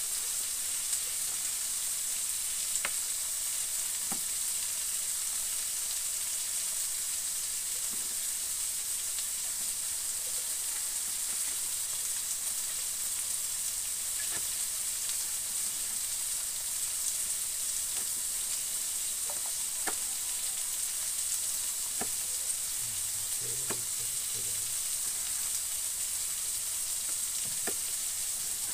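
Tomato, chilli and onion frying in oil in a wok: a steady sizzle, with a few sharp taps scattered through it, which fit a knife on a cutting board.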